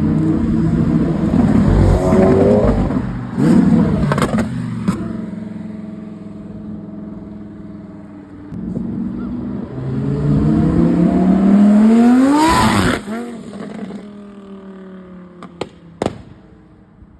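Car engines revving as cars pull away: a short rev, then a longer one rising in pitch to a peak near the middle, each followed by a few sharp cracks.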